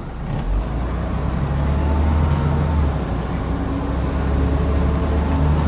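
Scania N94UD double-decker bus's DC09 five-cylinder diesel engine working hard under acceleration. Its low note swells about half a second in and then holds steady, with a faint whine above it.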